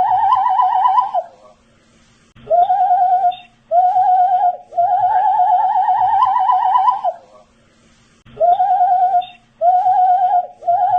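A man whistling a quick, warbling note in repeated phrases. A long phrase ends about a second in, and after a pause come two short phrases and a long one that creeps upward in pitch. After a second pause, short phrases start up again near the end.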